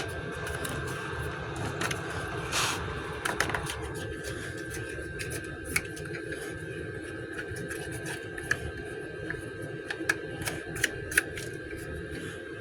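A steady hum with a thin high tone, overlaid by scattered light clicks and taps, with a short scraping rustle about two and a half seconds in.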